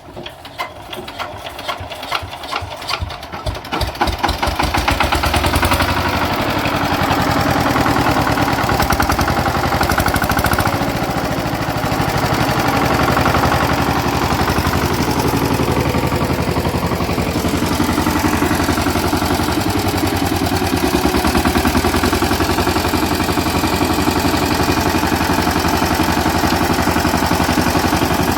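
Power tiller engine starting: its firing knocks quicken over the first few seconds as it picks up speed, then it settles into steady running.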